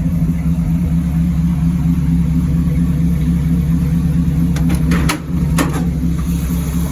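A 350 small-block Chevy V8 idles steadily through a dual exhaust with the pipes exiting on both sides. A few light clicks are heard about five seconds in.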